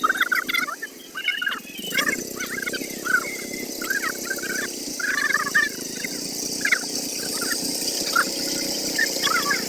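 Birds calling with many short, repeated chirps over a steady high hiss.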